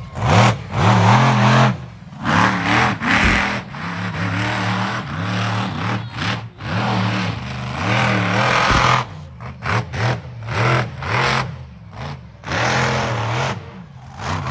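Monster truck engine revving in repeated bursts, dropping back between them.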